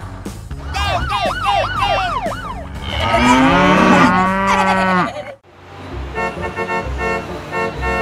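A cow mooing in one long call of about two seconds, starting about three seconds in, after a run of quick rising-and-falling chirpy tones. After a sudden break, background music with a steady beat.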